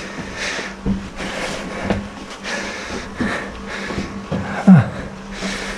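Heavy, panting breaths in a steady rhythm of about one a second from someone out of breath climbing steep stairs, with a short grunt near the end.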